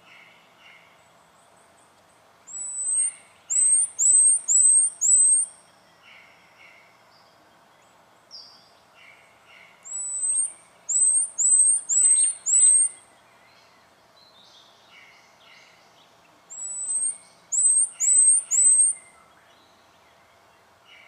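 Spotted quail-thrush singing: three phrases of very high, thin whistled notes, each a short lead-in followed by four quick notes, the phrases several seconds apart.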